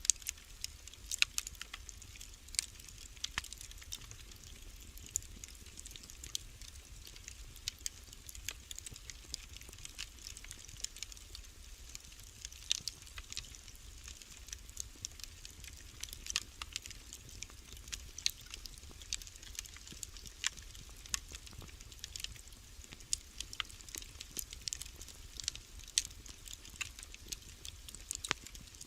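Wood fire crackling in a fireplace: a steady run of irregular small snaps and pops, a few of them louder, over a low steady rumble.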